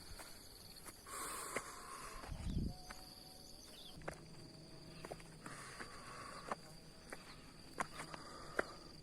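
A steady, high, thin insect trill, like crickets, runs throughout. Over it are scattered footsteps and scuffs of someone climbing on foot, with a low thump about two and a half seconds in.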